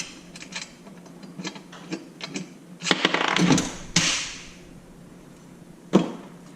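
Small metal hardware (bolts, nuts and washers) clicking and clinking as it is handled while the stand is put together, with a denser burst of clattering about three seconds in and a sharp click near the end.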